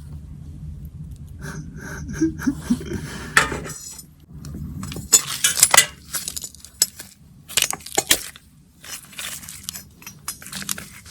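A low rumble, then from about five seconds in a run of sharp clinks, knocks and scrapes as the last roasted potato is dug out of the campfire embers and ash.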